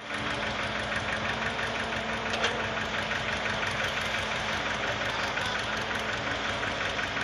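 Diesel engine of an L&T Case 770 backhoe loader running steadily with an even, rapid knock. There is one short sharp click about two and a half seconds in.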